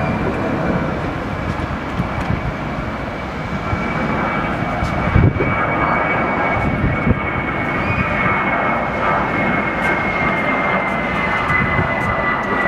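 Airbus A380 jet engines running, a steady rush with a thin high whine that falls slowly. A brief low thump comes about five seconds in.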